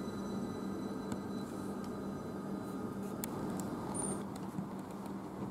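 Electric multiple-unit passenger train at the platform, giving a steady low hum over a dense rumbling noise, with a few light clicks. A brief high chirp comes about four seconds in.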